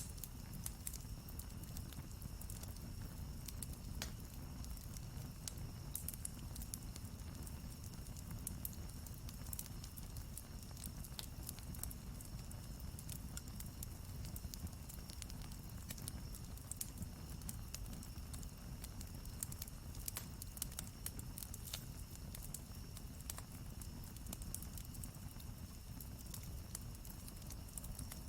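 Wood campfire crackling: irregular sharp pops and snaps throughout, over a steady low rumble.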